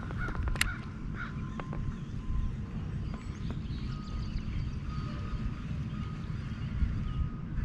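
Low rumble of wind on the microphone, with a few clicks early on and faint, short bird calls repeating from about halfway through.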